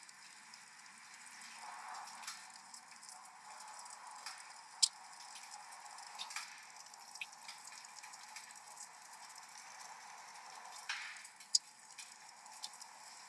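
Steady hiss of rain with irregular sharp pops and crackles from a wood fire; the loudest pops come about five seconds in and again about eleven seconds in.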